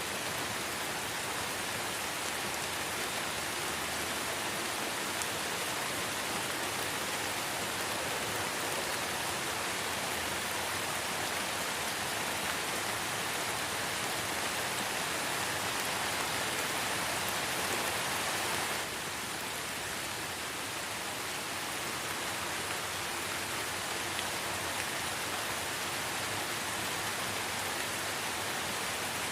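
Steady light rain falling on foliage and ground, an even hiss with a slight drop in level about two-thirds of the way through.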